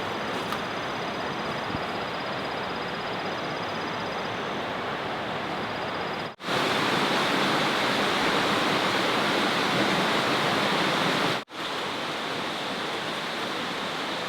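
Steady rushing of flowing water, broken by two abrupt cuts; the middle stretch is louder.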